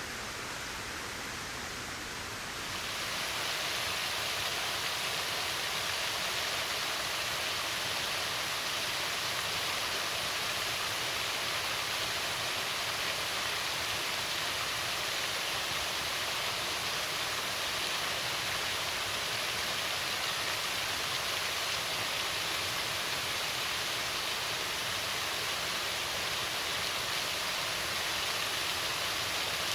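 Small waterfall pouring over a rock ledge: a steady, even rush of falling water, which turns louder and brighter about two and a half seconds in and then holds.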